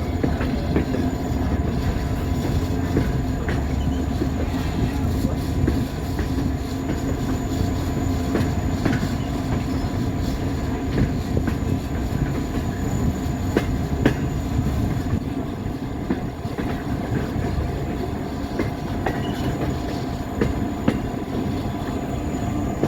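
A train heard from the open coach directly behind its EMD F40PHM-2 diesel locomotive as it climbs grade: a steady rumble of the 16-cylinder diesel engine and wheels on rail, with scattered clicks from the wheels running over the track.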